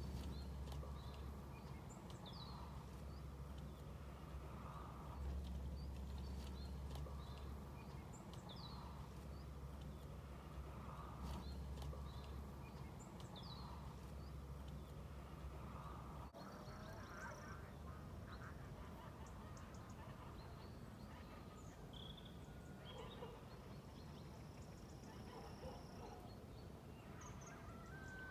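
Domestic fowl calling again and again over a steady low hum, with small birds chirping now and then; the hum stops about halfway through.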